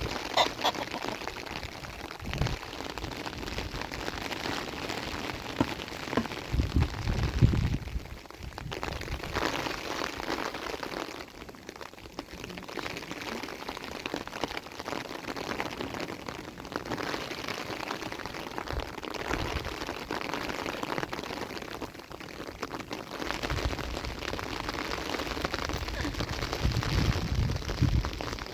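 Steady rain pattering on surfaces, with bursts of low rumbling about a quarter of the way in and again near the end.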